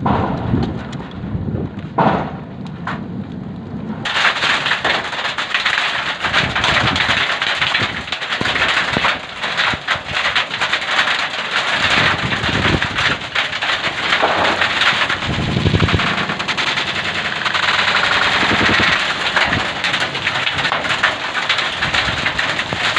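Hailstones pelting a hard surface in a storm, a dense, loud rattle of countless sharp impacts. About four seconds in the rattle suddenly becomes much louder and stays so; before that, wind and rain with only scattered hits.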